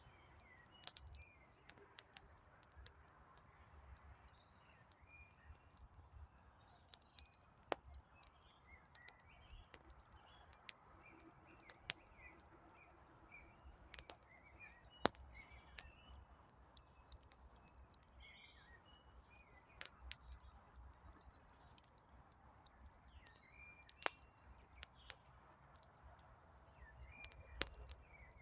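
Wood campfire crackling with scattered sharp pops, a few of them louder, while small birds chirp in the background.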